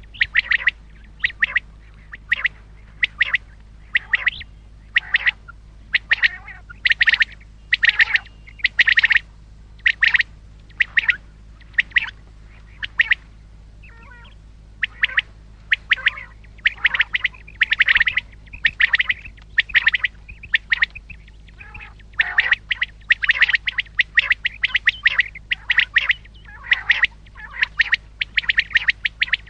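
Common quail calling: short, sharp notes repeated over and over in quick runs with brief gaps, over a steady low hum.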